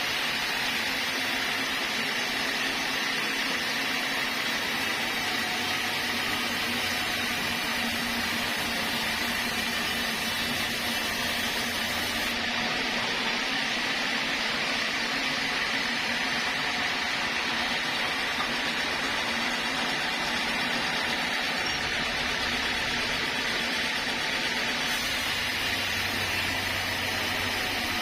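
Sawmill saw machinery running with a steady, even mechanical noise and a constant higher hum.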